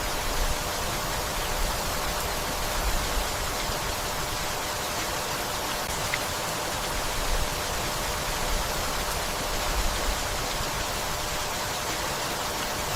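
Steady rainfall, a dense even hiss of rain on leaves and surfaces.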